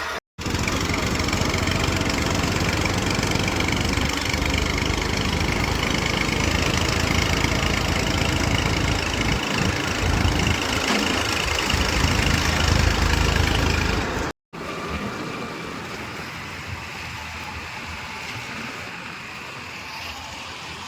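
Diesel engines of farm and earth-moving machinery running steadily. The sound drops out briefly twice and is quieter after the second break, about two-thirds of the way in.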